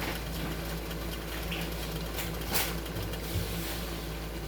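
A steady low mechanical hum under a faint hiss, with a few light clicks a little past two seconds in.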